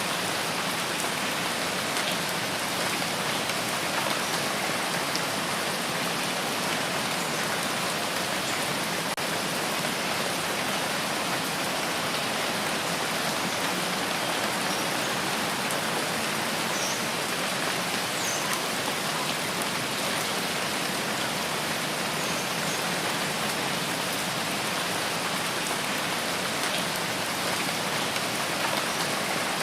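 Steady rain falling in a rain forest, an even unbroken hiss of many drops at a constant level. A few faint, short, high chirps come through about halfway in.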